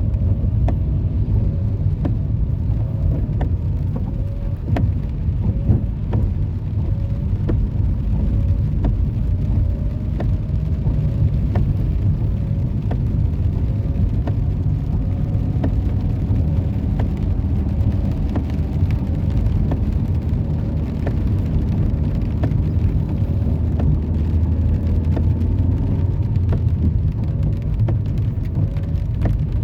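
A car driving: steady low engine and road rumble with a faint engine note that slowly rises and falls, and scattered light ticks.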